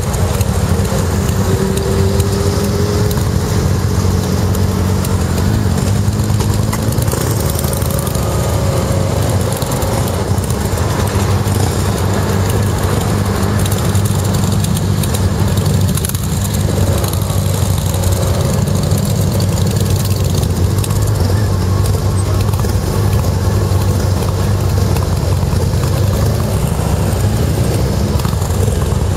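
Motorcycle engines idling together as a steady low rumble, picked up by a helmet-mounted camera.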